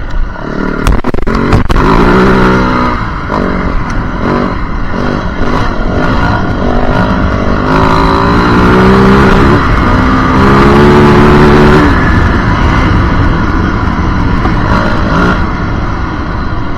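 Yamaha WR450F's single-cylinder four-stroke engine running hard off-road, its note swelling through several throttle pulls and easing between them. A few sharp knocks about a second in.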